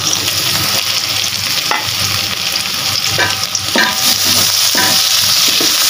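Boiled jackfruit seeds frying in oil with sliced onion, garlic and dried red chillies: a steady sizzle, with a wooden spatula scraping against the metal pan a few times as it stirs.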